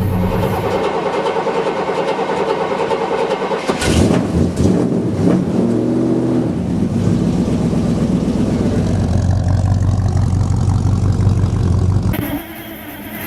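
Old vehicle engine running just after a cold start in freezing weather. It is revved about four seconds in, then settles to a steady idle. The sound changes abruptly about twelve seconds in.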